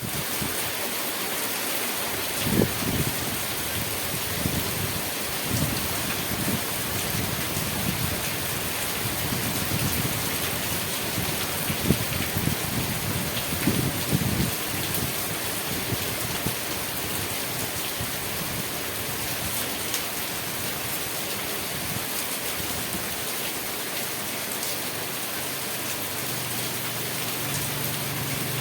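Steady rain falling on surfaces, a constant even hiss, with occasional low thuds and rumbles in the first half.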